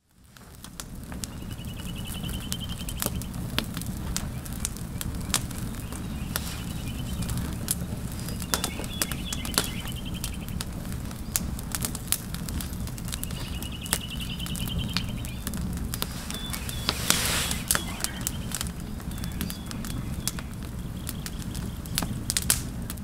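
A bird calling in short trills every few seconds, over a steady low rumble with many sharp crackles and clicks.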